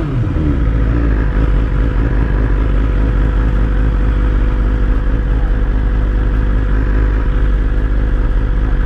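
Motorcycle engine idling steadily, falling back from a brief rev right at the start.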